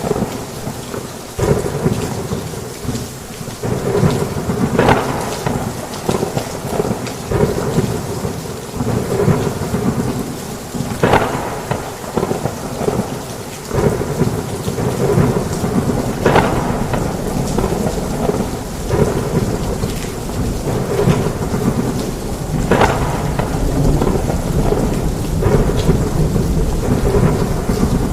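Heavy rain falling steadily on a roof, with thunder rumbling underneath. Brief sharper bursts come about every five to six seconds, and the low rumble grows heavier about halfway through.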